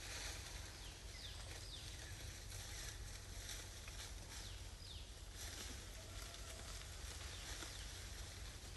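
Outdoor ambience with a steady hiss, scattered light clicks, and several short, high, falling chirps from a small animal.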